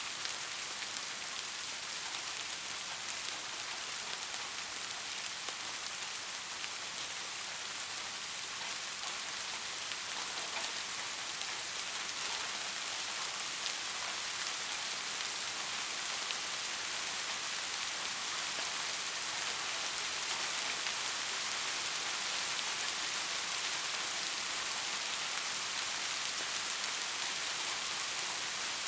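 Steady soft rain falling on a surface, a continuous even hiss with fine patter of drops.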